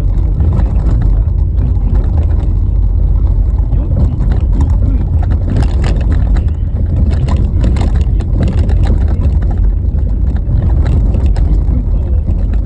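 A car driving over a rough, rutted snow-covered road: a steady, loud low rumble of tyres and road noise, with scattered clicks and rattles that come thickest in the middle.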